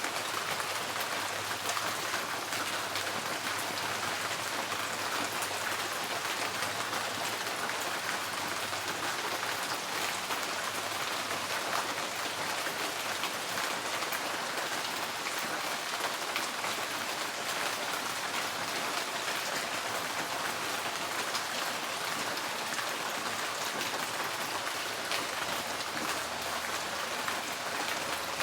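Rain falling steadily on a tin porch roof: a dense, even patter of drops on the metal.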